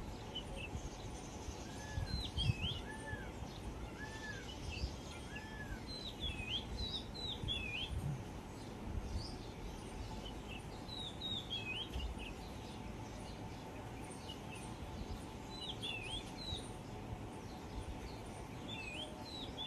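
Wild birds calling: one bird repeats a short phrase of high, hooked notes every few seconds, and near the start another gives four lower, evenly spaced calls about a second apart. An uneven low rumble of background noise runs underneath.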